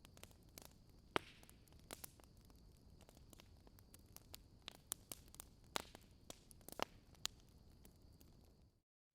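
Campfire burning wood with soft crackling: scattered sharp pops and snaps over a faint hiss, a loud pop about a second in and a run of pops a little past the middle. The sound cuts out to silence for a moment near the end.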